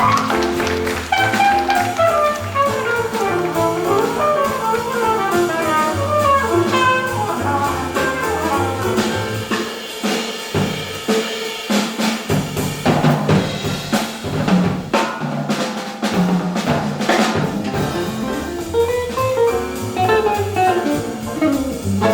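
Live small-group jazz: a drum kit plays with rimshots and cymbals over double bass, while quick runs of melodic notes move up and down.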